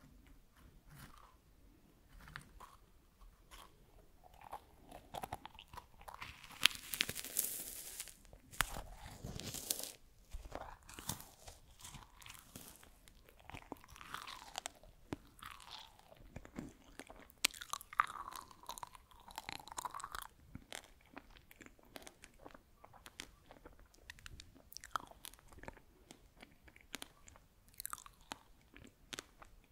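Close-miked crunching and chewing of freeze-dried strawberry slices: many dry, brittle crackles as the airy fruit is bitten and chewed, loudest about a quarter of the way in.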